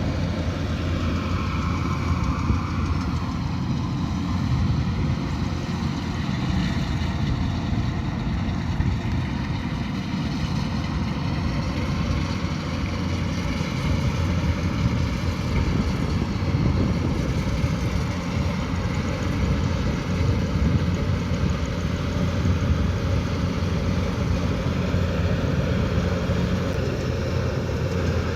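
Kubota DC108X combine harvester running steadily, a continuous low diesel engine drone whose pitch drifts slightly up and down.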